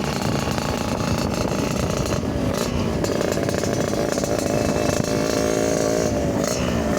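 Motorcycle engine running through an aftermarket racing exhaust with a crisp, sharp note (garing cering), held at a steady speed and easing off slightly near the end.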